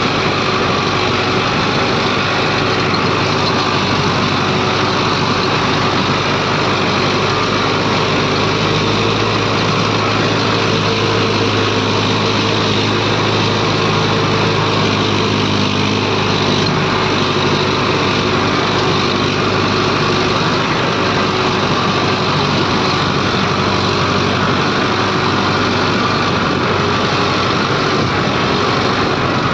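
Diesel engines of a backhoe loader and tractor running steadily during soil loading; the engine note grows stronger for several seconds in the middle.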